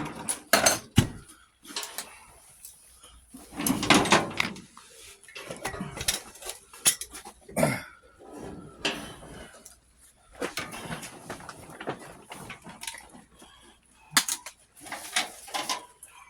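Metal parts and hand tools clinking and clattering at irregular moments during the dismantling of an old lawn tractor, with a louder, longer clatter about four seconds in.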